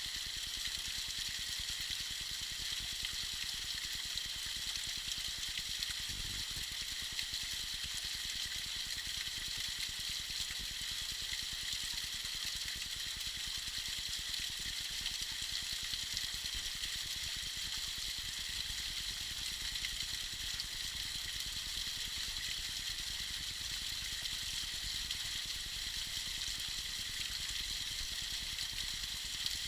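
Tiny icy waterfall splashing steadily: an even high hiss of falling water with faint droplet ticks.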